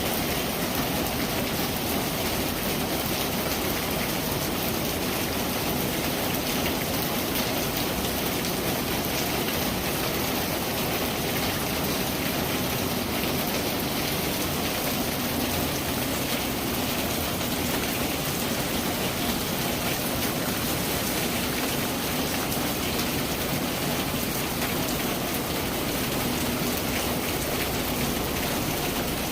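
Steady rain falling, a dense even hiss with countless fine drop ticks, unchanging in strength.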